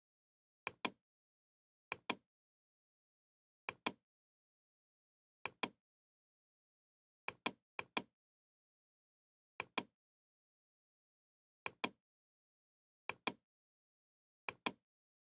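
Pairs of short, sharp clicks, each pair a quick double click, repeating irregularly every second and a half to two seconds, with dead silence between them.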